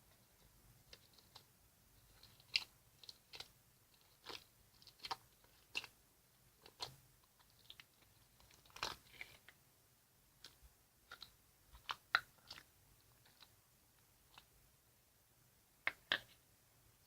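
Homemade slime being worked: irregular wet squelches and sticky clicks, about one or two a second, some louder than others.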